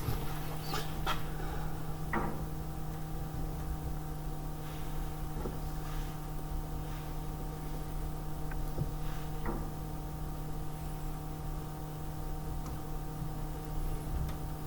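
A steady low hum with a handful of short, scattered clicks and taps.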